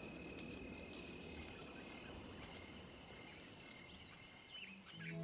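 Insects, crickets in kind, chirring steadily in the bush over a low ambient hiss, fading out about three and a half seconds in; a few faint bird chirps come near the end.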